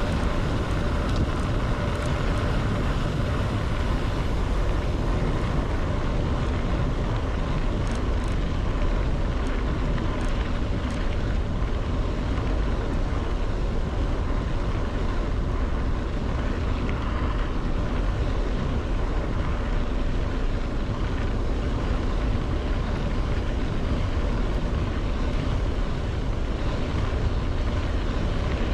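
Steady wind rushing over the microphone of a bicycle rider's camera at speed, a constant low rumble.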